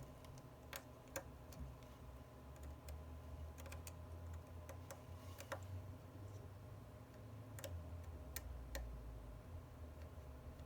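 Faint, irregular light clicks of a small precision screwdriver and tiny metal parts being handled while screws are driven back into an iPhone 11 Pro, over a low hum.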